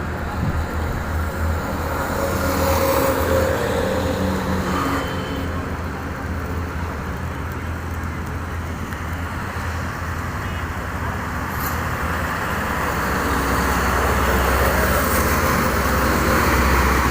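Steady street traffic noise: vehicle engines running and passing over a continuous hiss, with a heavier engine rumble growing louder in the last few seconds.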